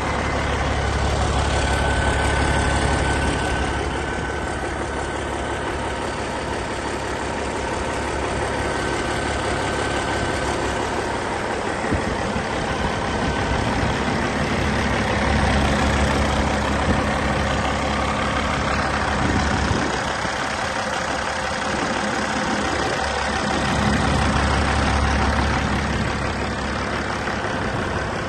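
Caterpillar 3406E 14.6-litre inline-six diesel engine running steadily at idle on a test run. Its low rumble swells and fades a few times.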